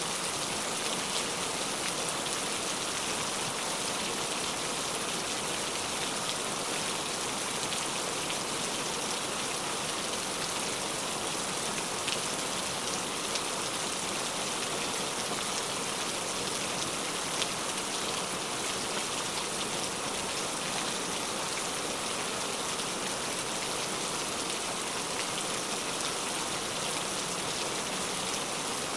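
Steady rain falling, an even hiss with scattered single drops ticking louder here and there.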